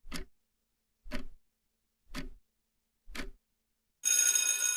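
Clock-tick sound effect used as a quiz countdown timer: four ticks about one second apart, then a bright bell chime rings out about four seconds in, marking time up before the answer.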